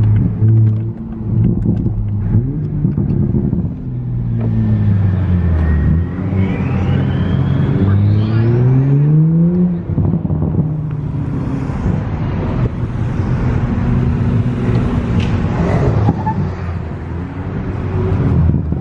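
Car engine running while driving, holding a steady drone, then climbing in pitch for about four seconds in the middle as the car accelerates, with a faint high whine rising along with it. It drops back abruptly, like a gear change, then carries on steadily.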